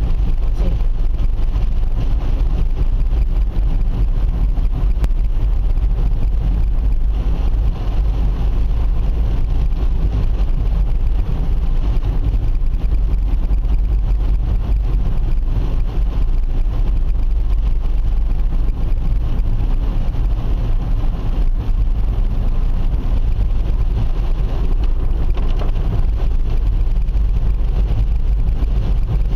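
Car driving on a wet road: a steady low rumble of engine and road noise with an even hiss of tyres and rain.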